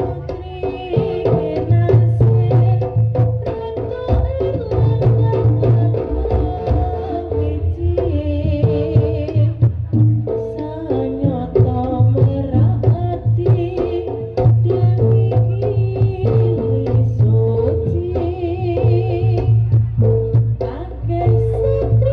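Live jaranan (kuda lumping) ensemble playing: hand drums and gamelan-style gongs and metallophones in a repeating pattern, with a high wavering melody coming in several times.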